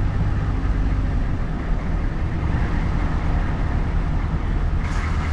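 Truck running with a steady low engine drone and road noise. A louder hiss joins near the end.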